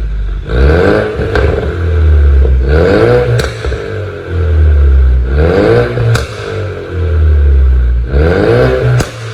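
Ford Mustang 2.3 EcoBoost turbo four-cylinder with a pops-and-crackles tune, revved in repeated blips about every three seconds. Each rev climbs in pitch and ends in a sharp exhaust pop, with crackling and a deep rumble as the revs drop.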